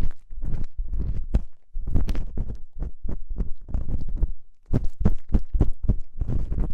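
Ear pick scraping and scratching close against the microphone in ear-cleaning ASMR: a quick run of short, scratchy strokes, each with a deep rumbling thud.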